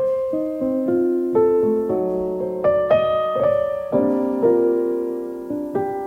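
Piano playing a slow melody over chords, each note struck and left to ring and fade.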